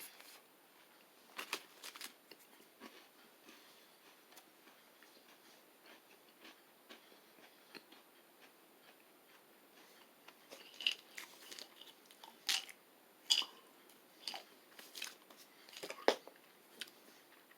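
Crunching and chewing of a crispy peanut butter chocolate wafer bar: faint, scattered crisp crunches, coming more often in the second half.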